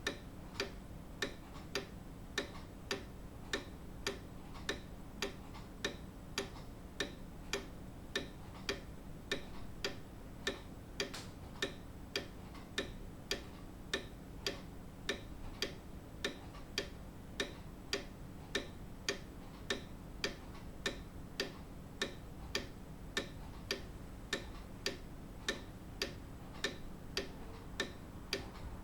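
Grandfather clock ticking steadily, with even, sharp ticks a little faster than one a second.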